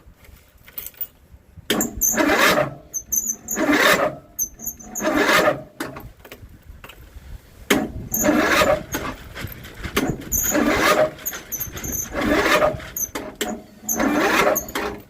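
John Deere 102 riding mower's electric starter cranking the engine in repeated surges about every one and a half to two seconds, without the engine catching: a cold start in bitter cold that fails to fire.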